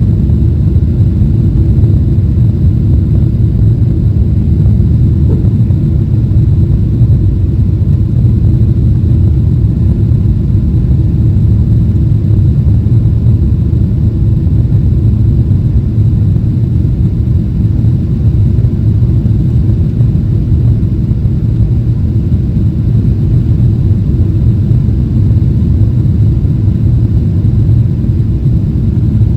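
Steady low rumble of a Boeing 777-300ER's cabin, the noise of its GE90 engines and air flowing past the fuselage, heard from a passenger seat.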